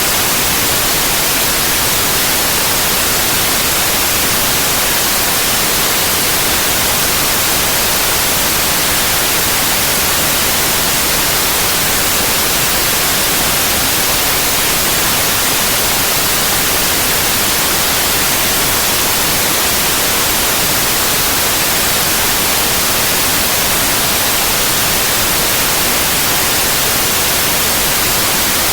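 Steady white noise: an even, unchanging hiss across the whole range, loud and without any variation.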